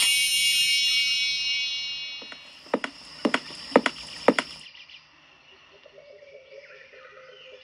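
A bright chime with many ringing tones strikes as the scene changes and fades away over about two seconds, followed in the middle by a quick, uneven run of sharp knocks.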